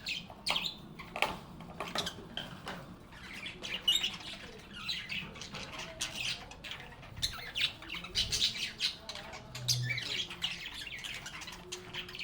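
A group of lovebirds chattering, with a steady run of short, high chirps and squawks as several birds call over one another.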